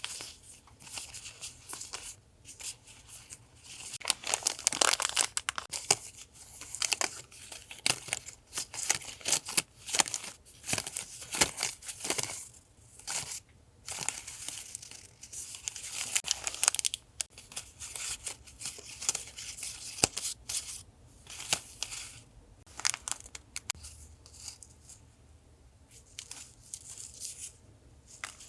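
Paper and plastic sticker packets being handled and opened: dense, irregular rustling, crinkling and tearing with sharp little clicks. It is busiest in the middle and thins out near the end.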